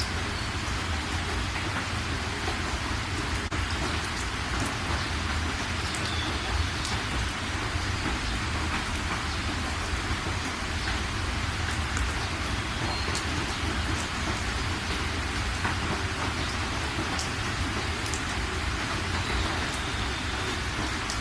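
Steady rainfall, an even hiss with scattered sharper drop ticks, over a constant low rumble.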